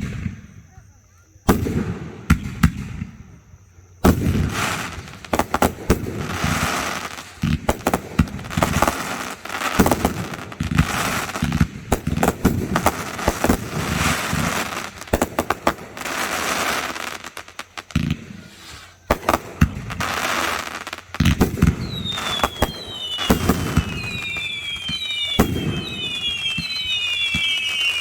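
Fireworks display: a sharp bang at the start, scattered shots, then from about four seconds in a dense barrage of launches and bursts with crackling. Near the end, several falling whistles overlap.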